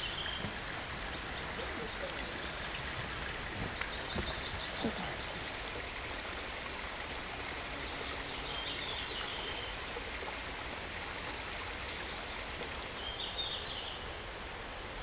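Mountain stream rushing steadily over rocks. Short, high chirps break in about four times, a little over four seconds apart.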